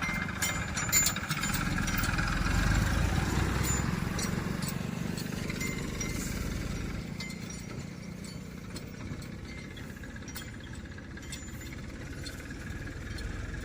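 A vehicle engine running with a low rumble, loudest a few seconds in and easing off after, with a few light clinks near the start.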